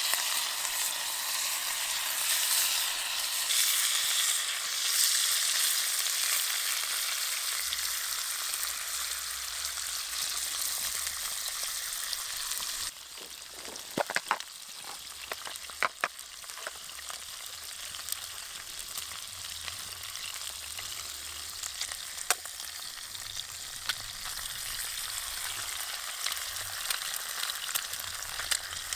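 Food sizzling as it fries over a campfire: a loud, dense sizzle that cuts off abruptly about halfway through. A quieter sizzle follows, with scattered sharp pops and crackles.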